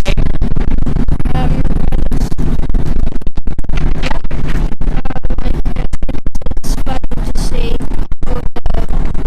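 Loud scratching and crackling on the microphone, with brief dropouts, over a steady low rumble inside a moving train carriage; faint voices can be heard behind it.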